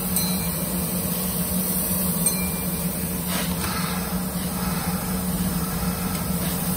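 Coupled Kintetsu electric train cars standing at the platform, their onboard equipment giving a steady low hum, with a brief hiss about three and a half seconds in.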